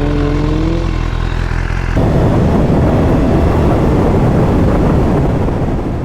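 BMW S1000RR inline-four engine running under a helmet camera. Its pitch glides briefly, then about two seconds in the sound changes abruptly to a rougher, noisier engine-and-wind sound.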